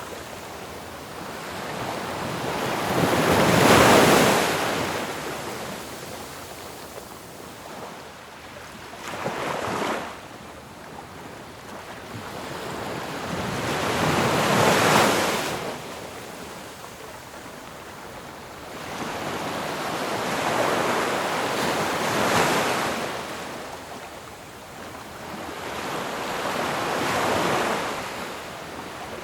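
Ocean surf crashing in a slow cycle. Five swells of rushing water each build up, break and wash away, one about every five to six seconds.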